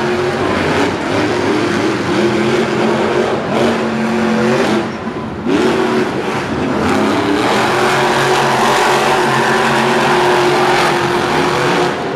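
Monster truck engines running at high revs. Their pitch sags and the sound drops briefly about five seconds in, then climbs again and holds steady.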